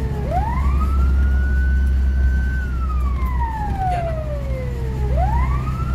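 Fire engine siren in a slow wail, climbing, holding high, then gliding down, about one cycle every five seconds, over the low rumble of the truck's engine. A new climb begins near the end.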